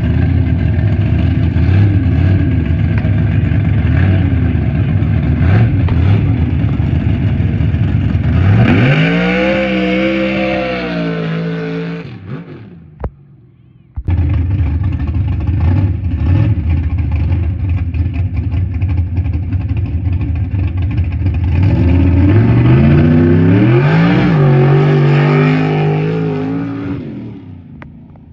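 Mud truck's engine running hard under load with a heavy low rumble, its revs climbing steeply about eight seconds in and then fading away. After a sudden break the rumble returns, and the revs climb again in the last third before fading out.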